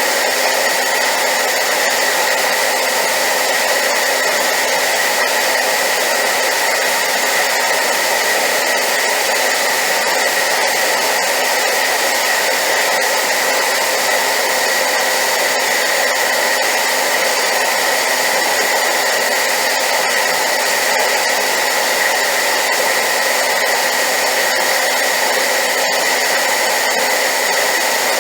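Hair dryer running steadily on high power: a constant loud rushing noise with a steady high whine, used as white noise.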